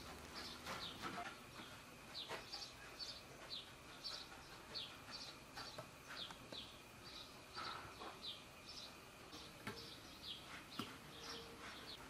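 A small bird chirping faintly, a short high note falling in pitch, repeated about twice a second. A few light clinks of a metal skimmer scooping rice from a steel colander into the pot come in between.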